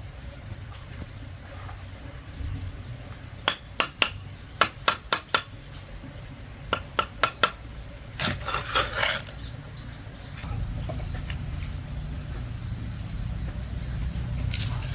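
Insects such as crickets keep up a steady high-pitched drone while a series of sharp knocks comes in two runs of quick strikes, followed by a brief clattering burst. A low rumble starts about two-thirds of the way through.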